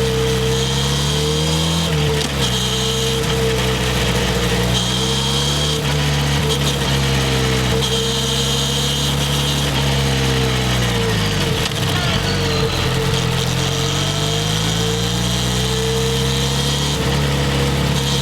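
Harley-Davidson X350's 353 cc parallel-twin engine running under way, the revs rising and falling through gear changes. About two-thirds of the way through the revs drop right down, then build up again.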